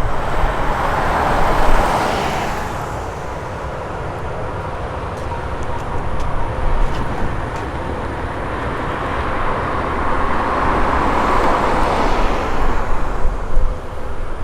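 Jet aircraft engine noise, a steady rushing sound over a low rumble with a faint constant whine, swelling twice: about a second in and again near the end.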